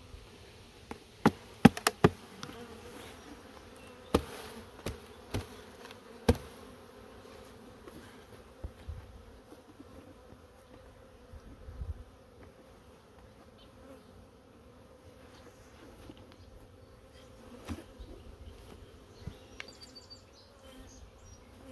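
A swarm of honeybees buzzing steadily at an open hive, with sharp knocks as the nuc box is smacked to shake the bees down into the hive: three loud raps about a second or two in, then a few more around four to six seconds in.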